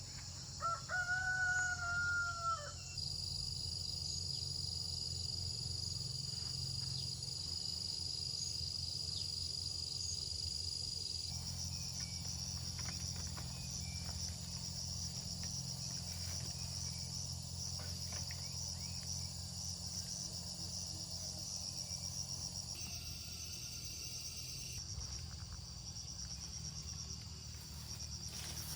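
A rooster crows once, about two seconds long, near the start. Insects then keep up a steady, high-pitched buzz that shifts its pattern a few times.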